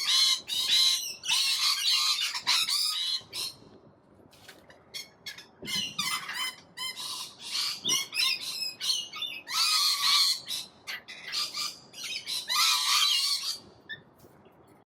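A flock of wild parrots screeching in loud bursts, with short chirps in between. They are noisy like this when hungry and waiting for a feed.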